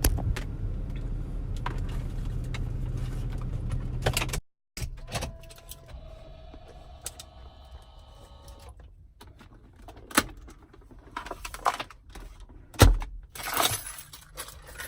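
Steady low hum of a vehicle running for about four seconds, cut off suddenly; then scattered clicks and knocks, with a sharp loud thump about thirteen seconds in.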